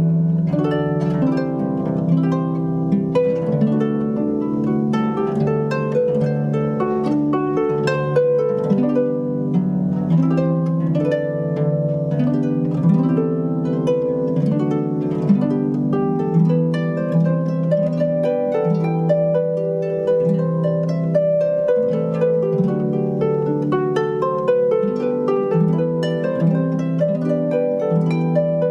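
Instrumental music of many plucked notes, harp-like, ringing and overlapping in flowing arpeggios.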